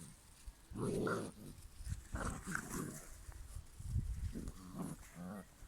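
Cane Corso puppies making short growls and grunts as they play-fight, several calls in a row with a few low thumps between them.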